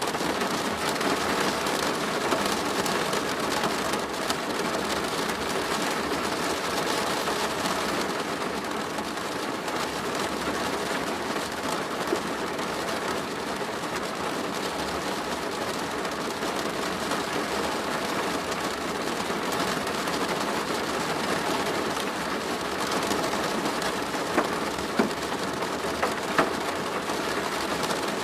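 Steady rain drumming on a plastic roof: a dense, even patter of drops with a few louder single drop hits near the end.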